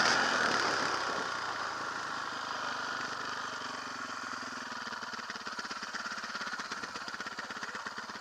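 Motocross bike engine idling with a rapid, even pulse, easing down over the first few seconds and then holding steady.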